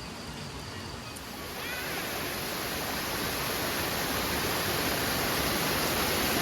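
Rushing water of a waterfall: steady, even noise across the whole range that comes in about a second in and slowly grows louder.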